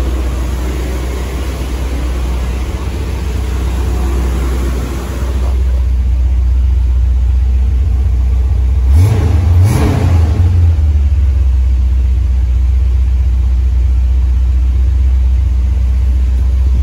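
1976 Corvette's small-block V8 idling steadily at about 1000 rpm on its freshly rebuilt Quadrajet four-barrel carburetor, with two short throttle blips a little over halfway through.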